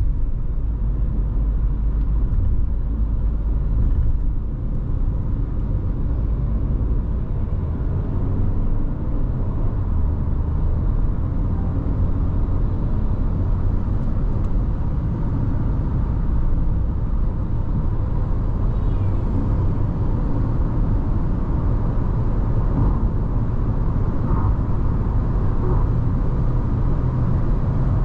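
Nissan Tekton SUV driving on the highway: a steady low drone of tyre and road noise with its 1.3-litre turbo petrol engine running under it.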